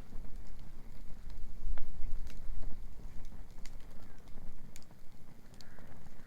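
Wood bonfire crackling with scattered sharp snaps and pops, over a steady low rumble that swells about two seconds in.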